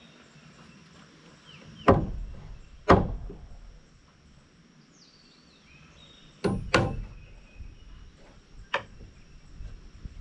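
Hammer driving nails into wooden roof purlins: five sharp blows at an uneven pace, two of them in quick succession about two-thirds of the way through.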